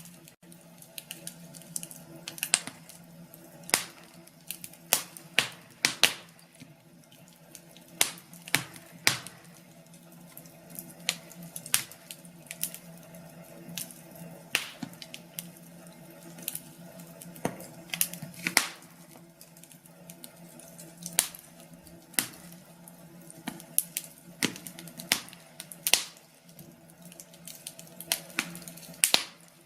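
Wood fire in a fireplace crackling, with sharp irregular pops and snaps, several a second at times, over a low steady hum.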